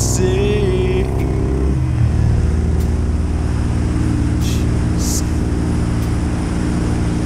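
Harley-Davidson Forty-Eight's 1200 cc air-cooled V-twin running steadily on the move, with wind rushing over the microphone. The engine note drops a little about two seconds in.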